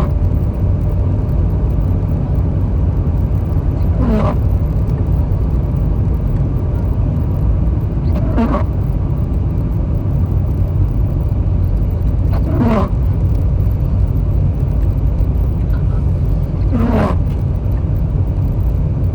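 Car cabin while driving: steady low road and engine rumble, with windshield wipers sweeping about every four seconds on an intermittent setting.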